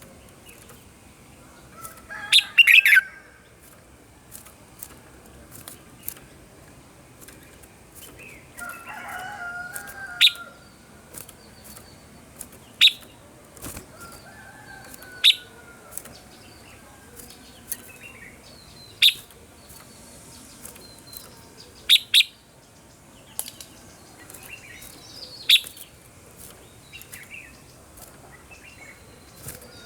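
Red-whiskered bulbul singing: short, loud, sharp phrases about every two to three seconds, with softer chirps and warbles between them.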